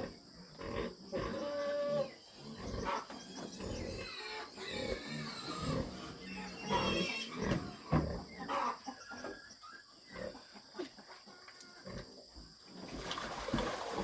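Pigs grunting and squealing in irregular short calls, some low and rough, a few higher-pitched squeals.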